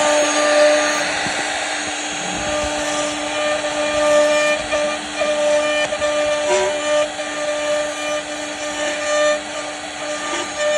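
CNC router spindle running at a steady high-pitched whine while its bit carves wood, with the hiss of the cut underneath and small changes in level as the load shifts.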